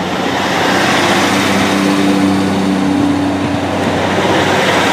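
Two coupled Class 153 diesel multiple units pulling away from the platform, their underfloor diesel engines working under power. The steady engine tones swell about a second in and hold loud.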